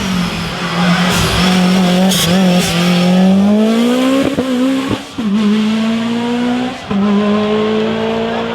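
Rally car engine pulling hard under acceleration. Its pitch climbs steadily and drops sharply at two upshifts, about five and about seven seconds in.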